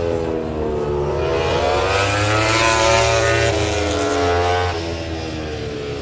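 MotoGP racing motorcycles' engines on the circuit: several overlapping engine notes fall and then rise in pitch as the bikes pass and accelerate. They are loudest about halfway through and ease off near the end, over a steady low hum.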